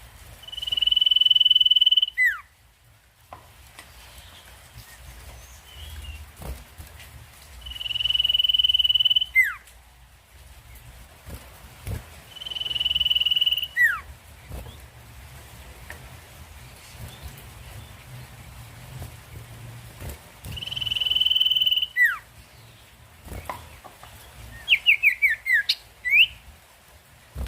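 Common iora (sirtu) singing: four long, steady, high whistles, each ending in a quick falling note, then near the end a rapid run of short descending notes.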